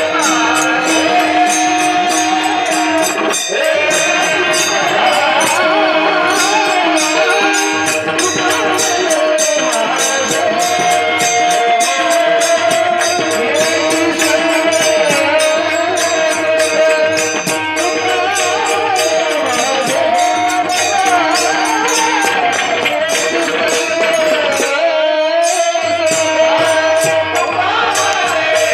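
Warkari devotional singing: a solo voice carrying a winding melody over a steady held drone. It is accompanied by pakhawaj drum and a regular beat of small metal cymbal strikes.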